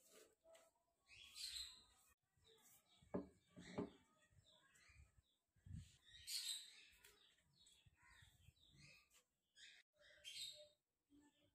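Faint bird chirps in short scattered bursts, with two light knocks about half a second apart a few seconds in.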